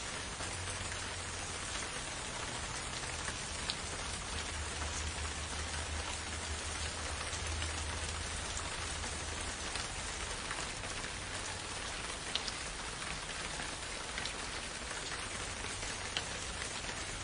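Steady rain falling in a forest, an even hiss with scattered close drop ticks and a faint low rumble underneath.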